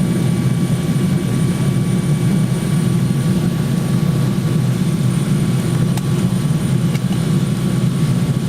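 Steady low drone of a jet airliner's cabin in flight, heard from inside the cabin: engine noise and rushing air, with faint steady whines above it, as the plane descends through cloud.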